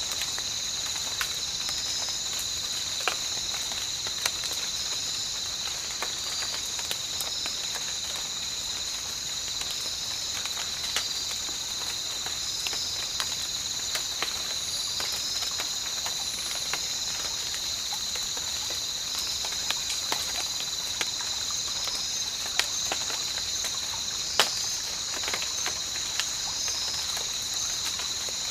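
Tropical rain ambience: scattered drops tap sharply and irregularly over a steady, high-pitched chorus of insects such as crickets. The two loudest drops come near the end.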